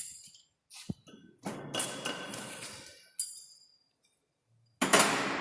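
A few sharp metallic clicks and knocks from handling metal parts in a machine shop, then a loud clank near the end that rings on and fades slowly.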